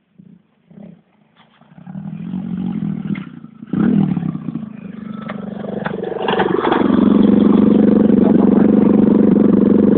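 Pit bike engine sputtering in a few short bursts, then catching about two seconds in and running unevenly before settling into a loud, steady run from about seven seconds in.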